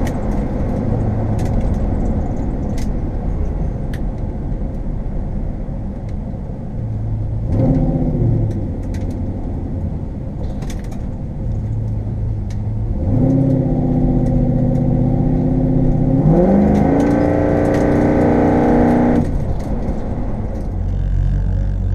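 1972 Chevelle's engine heard from inside the cabin while the car is driven at speed. It revs up briefly about seven and a half seconds in, then from about thirteen seconds it rises in pitch, holds, and climbs again to a higher steady pitch before dropping off about nineteen seconds in, over a steady road drone with light rattles and clicks.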